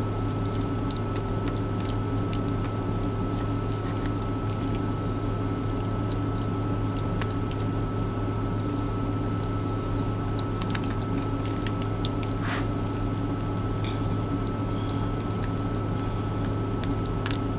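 Steady low hum inside a truck cab, with faint scattered clicks and wet squishing of a spoon stirring tuna salad in a plastic container.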